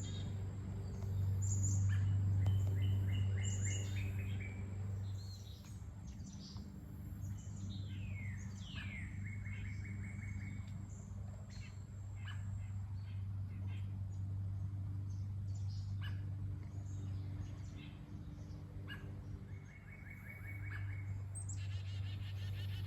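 Wild songbirds chirping and calling, with several rapid trills and a few quick downward-sweeping calls, over a steady low hum.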